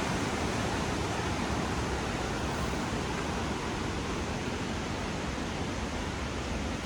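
A steady rushing noise with no distinct pitch, with a sharp click right at the end.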